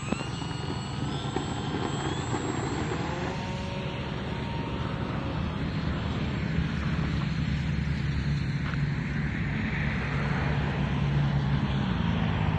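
Radio-controlled model airplane's motor and propeller running, its whine climbing in pitch over the first few seconds, over a steady low rumble.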